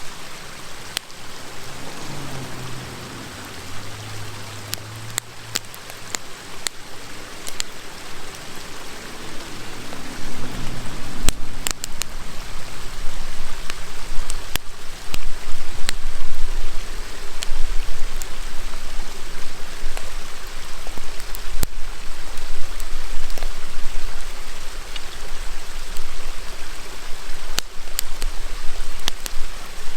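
River water rushing steadily over a campfire's crackling, with sharp wood pops scattered through. The rush grows louder about a third of the way in.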